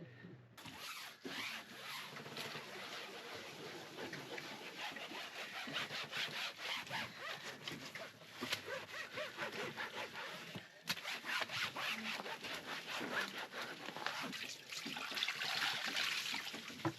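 Brush scrubbing a boat's deck surface with quick back-and-forth strokes, a steady scratchy rasping that starts abruptly about half a second in and pauses briefly about two-thirds of the way through.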